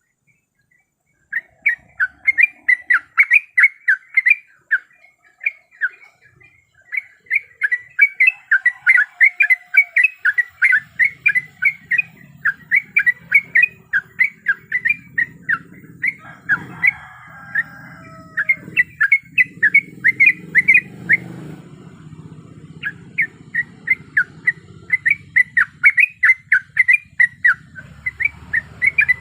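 Yellow-vented bulbul (trucuk) calling in rapid runs of sharp chattering notes, about five a second, in bouts with short breaks. It follows a brief silence at the start. From about a third of the way in, a low background rumble and a few other sliding bird calls sit beneath it.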